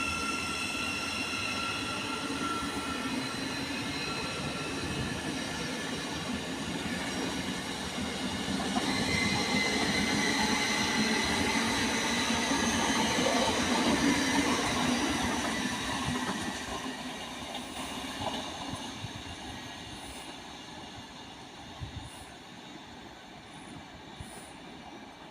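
Thameslink Class 700 electric multiple unit pulling away from a station. Its traction equipment whines in several steady tones, and a new tone comes in about nine seconds in as the train grows louder passing by. It then fades as the train draws away, with a few clicks near the end.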